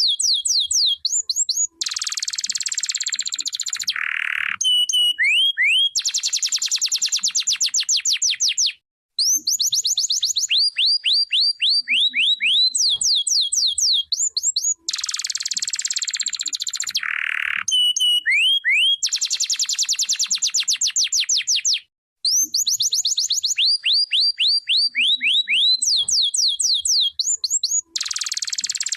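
Domestic canary singing: fast trills of high, downward-sweeping whistled notes alternating with dense, buzzy rolls. The same song sequence comes round again about every thirteen seconds.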